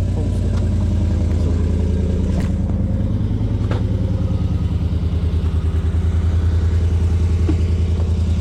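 Chevrolet Silverado pickup's engine idling through a loud exhaust seconds after a cold start, a steady, evenly pulsing low rumble.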